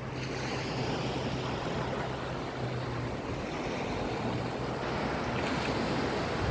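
Sea waves washing, with wind on the microphone and a steady low engine-like hum that fades out about five seconds in.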